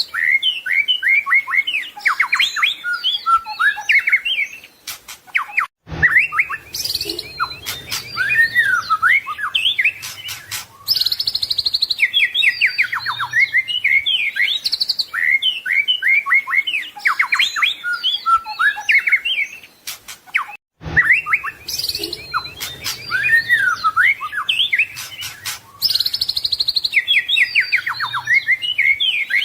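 White-rumped shama (murai batu) singing a long, fast, varied song of sweeping whistles, rapid trills and chattering notes, broken by two short gaps, about six seconds in and again about fifteen seconds later.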